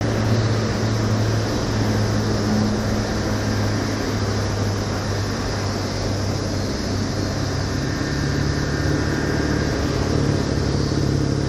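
A steady low engine hum under an even rushing noise, its pitch stepping slightly higher about eight seconds in.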